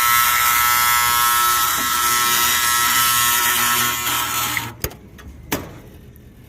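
Combustion blower motor of a Trane gas package unit, energized in the heating test stage, giving a loud, harsh electrical buzz because it is locked up and not turning. The buzz cuts off suddenly about three-quarters of the way in, followed by two sharp clicks.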